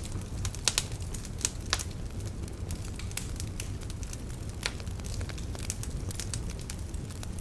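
Wood fire burning in a fireplace: logs crackling with irregular sharp pops over a low steady rumble, a few louder pops in the first two seconds.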